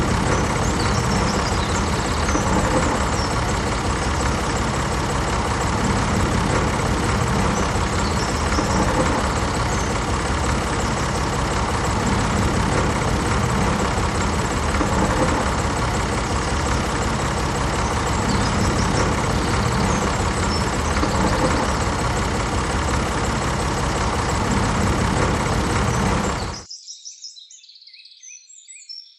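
Tractor engine running steadily at idle. It cuts off suddenly near the end, leaving faint bird chirps.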